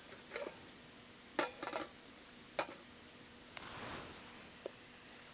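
Utensils clinking and knocking against cookware in a few separate short strikes, then a soft rush of noise lasting about a second, near four seconds in.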